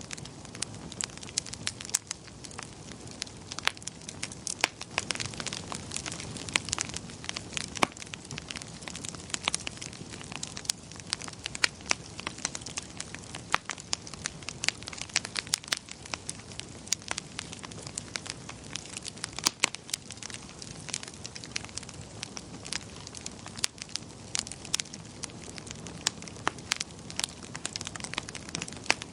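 Wood fire burning in a fireplace, with a steady low rush of flames and frequent sharp crackles and pops from the burning logs.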